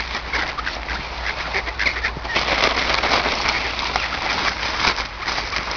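A flock of ducks quacking, with many short calls overlapping throughout.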